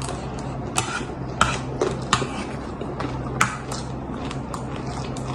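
Eating chatpate: a handful of short, scattered clicks and crunches from the spoon and the snack, over a steady low hum.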